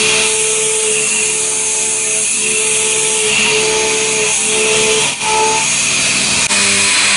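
CNC machine cutting a bicycle part: a loud, steady hiss of cutting and coolant with a humming tone that breaks off and resumes every second or so. The sound shifts abruptly near the end.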